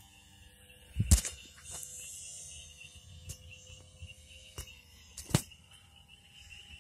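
Faint steady high whine of a remote-control model airplane's electric motor in flight. Two sharp knocks sound about a second in and again near five seconds.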